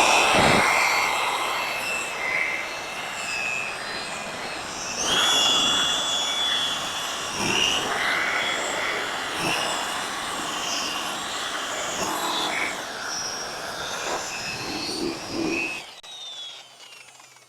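Electric buffing machine running a polishing pad over a boat hull, its motor whine wavering in pitch as it is worked, then switched off near the end.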